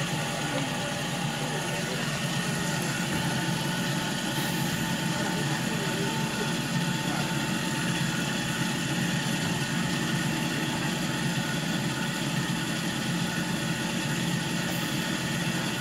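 Steady running of a diesel passenger train heard from on board: an even low hum of engine and carriage noise with no distinct wheel clicks. Faint voices come in right at the start.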